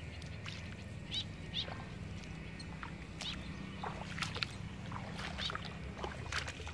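Birds calling in short, scattered chirps, over a low steady hum.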